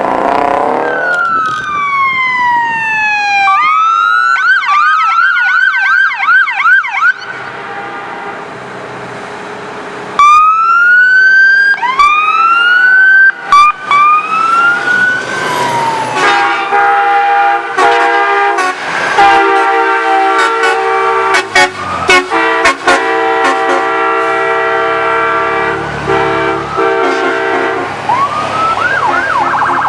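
Emergency-vehicle siren: a wail winding down, then a rapid yelp, then rising wails. From about 16 s to 28 s a long steady multi-toned horn blast holds, and near the end the siren's yelp comes back.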